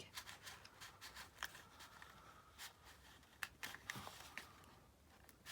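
Faint handling of paper and card, with scattered light clicks and taps.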